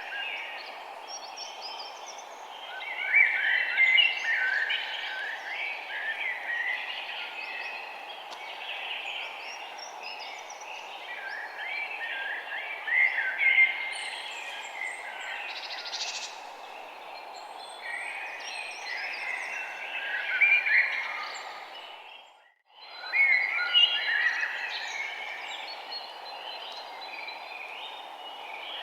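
Small songbirds chirping and twittering in repeated busy flurries over a steady background hiss of outdoor noise. All the sound fades out briefly and back in about three-quarters of the way through.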